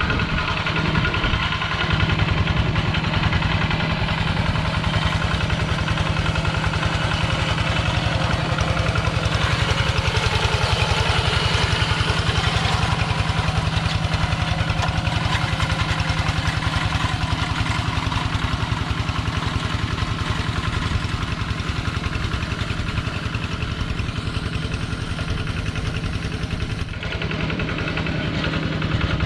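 Diesel engine of a Kubota two-wheel walk-behind tractor running steadily with an even pulse, easing slightly near the end.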